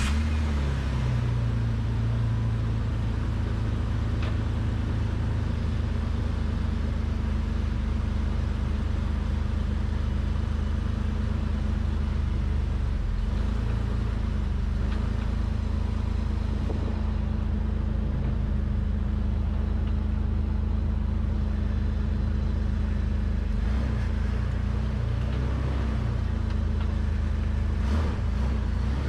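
Jeep Wrangler's 4.0-litre straight-six engine running steadily as the Jeep drives, with road noise, heard from a camera mounted down by the axle.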